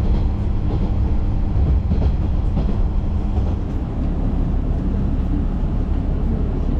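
Nagara River Railway diesel railcar running along the line: a steady low rumble with a few faint clicks of the wheels over the rails.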